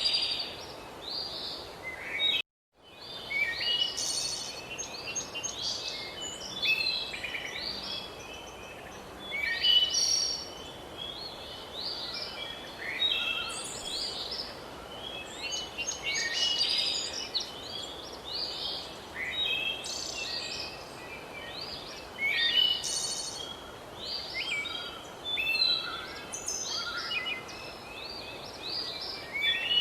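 Several songbirds singing and chirping at once, overlapping short calls and trills, over a steady background hiss. The sound cuts out completely for a moment about two and a half seconds in.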